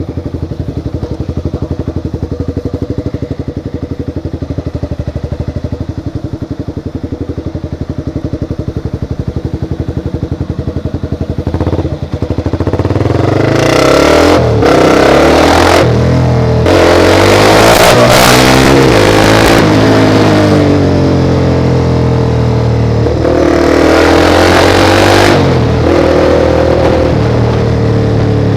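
Motorcycle engine idling steadily, then, about twelve seconds in, pulling away and accelerating, its pitch climbing and dropping through several gear changes. Gusts of wind noise hit the microphone as speed builds.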